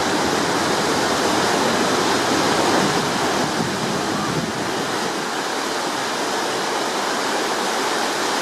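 Steady rushing of water and wind aboard a ferry under way, an even noise with no distinct events.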